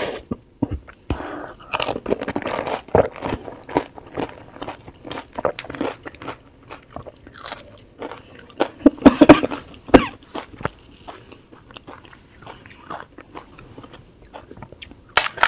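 Close-miked biting and chewing of pani puri: the crisp fried puri shells crunching and crackling in the mouth, loudest about nine to ten seconds in.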